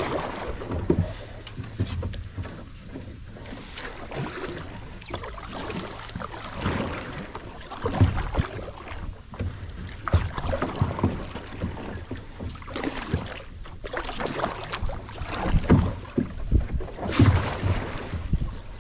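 Kayak paddling: a paddle dipping and splashing in the water with irregular strokes and an occasional knock against the hull, over a low rumble.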